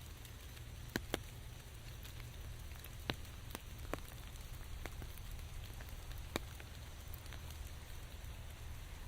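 Steady rain with individual drops tapping close by, the loudest a pair of drips about a second in and single ones around three and six seconds in, over a low steady rumble.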